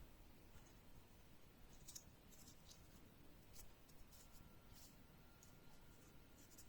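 Faint, scattered light clicks and taps of small hard parts being handled, over near silence.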